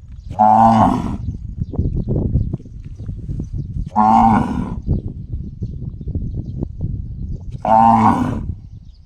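A cow calling three times, about every four seconds, each a short pitched call that sounds like a gong being struck. A low, uneven rumbling noise runs between the calls.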